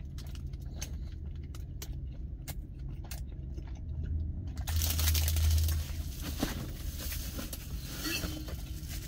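Close chewing of frozen pizza bread, with small crunches and clicks, over a steady low hum in the truck's cab. A louder rush of noise swells up around the middle.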